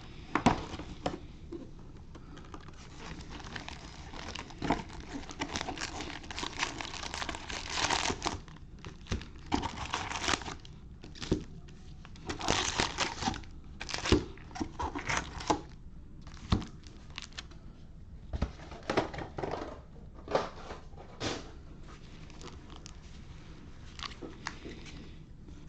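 Plastic wrapping of baseball card packs being torn open and crinkled by hand, in a run of short bursts with pauses between them.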